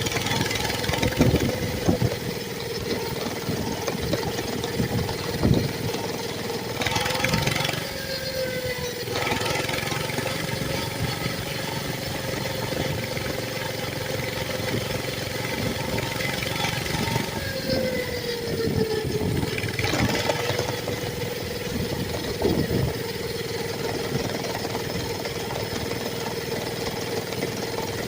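Mini bike's small engine running steadily while being ridden, its pitch dipping briefly twice as the throttle eases, with a few knocks and a couple of bursts of hiss.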